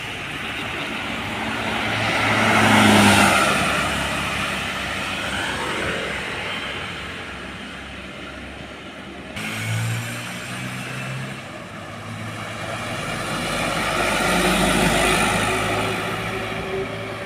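Heavy trucks driving past on a road, each one swelling in and fading away. One passes about three seconds in, the sound changes abruptly about halfway through, and another passes near the end.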